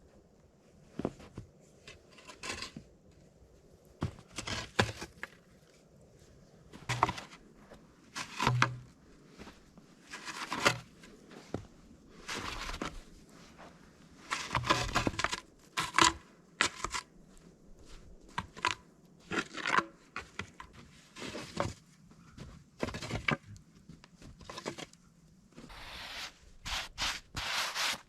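Irregular tearing, scraping and rustling, in short bursts of about a second, of something being handled and worked by hand.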